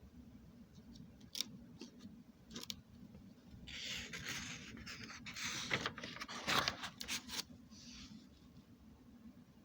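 A few scattered clicks, then about four seconds of scraping and rustling close to the microphone, with sharp clicks in it, and a last short scrape near the end.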